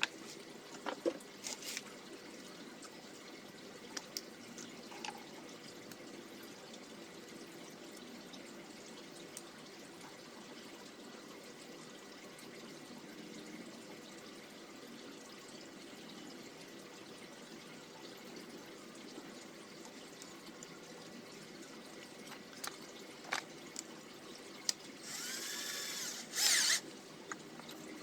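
Scattered light clicks and taps of workshop handling over a faint steady hum. Near the end an electric drill runs briefly, for about two seconds.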